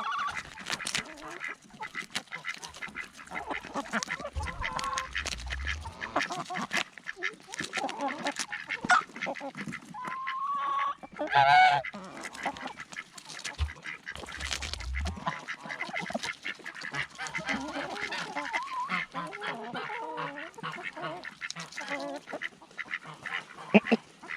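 Backyard poultry flock calling while being fed, mostly duck-like quacks and honks, with frequent short clicks and taps in between.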